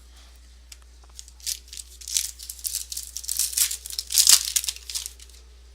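Foil trading-card pack wrapper being torn open and crinkled by hand, a run of crackles and rips that is loudest near the end.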